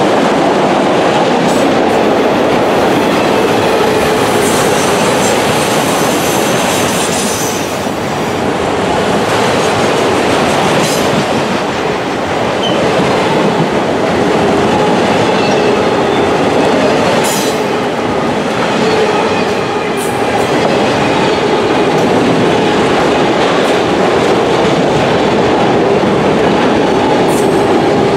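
Autorack freight cars of a passing train rolling by close at hand: a loud, steady rumble and rattle of steel wheels on rail, broken by a few sharp clicks.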